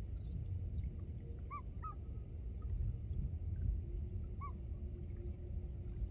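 A few short bird calls, two close together and a third a few seconds later, each a brief rise and fall in pitch, over a constant low rumble.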